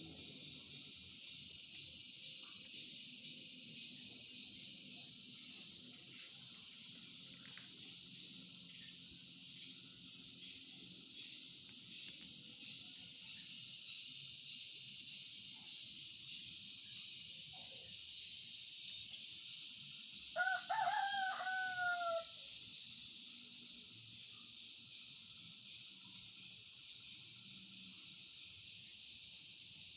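A rooster crows once, a single call of about two seconds that falls in pitch at the end, about two-thirds of the way in. Under it a steady high insect drone, like crickets, goes on throughout.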